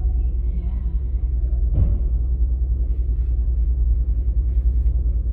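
Steady low rumble of a car ferry's engines as the boat comes in to dock, with a faint knock about two seconds in.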